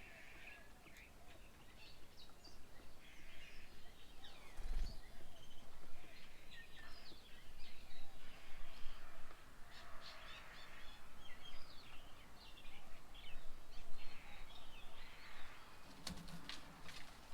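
Several birds chirping and calling over one another in short rising and falling notes. A low thump comes about five seconds in, and a few sharp clicks come near the end.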